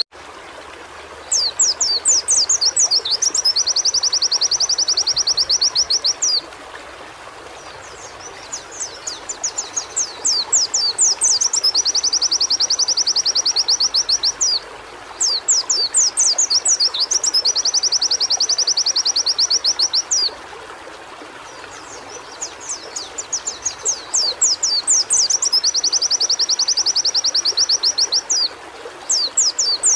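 A pleci (white-eye) singing in repeated phrases. Each phrase is a run of quick up-and-down whistled notes that turns into a fast, even, high trill of about three seconds. The phrase comes back about every seven seconds, four times over, with a fifth starting near the end, over a steady background hiss.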